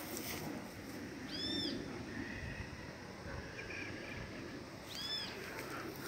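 A bird calls twice, each a short high note that rises and falls, about three and a half seconds apart, over a steady low background noise.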